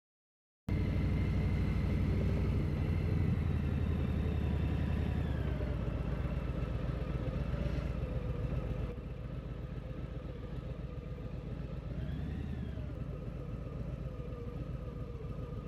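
Motorcycle engine running on the road, its pitch drifting up and down with speed, starting and stopping abruptly and a little quieter from about halfway through.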